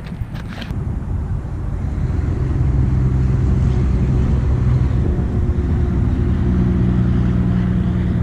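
A motor engine running steadily, building up over the first couple of seconds and then holding, its pitch shifting slightly near the end; a few sharp clicks right at the start.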